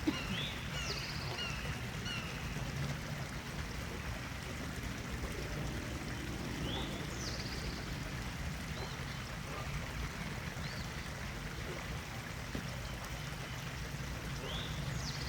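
Wild birds chirping, with a buzzy call sweeping downward three times and shorter chirps between, over a steady low rushing background.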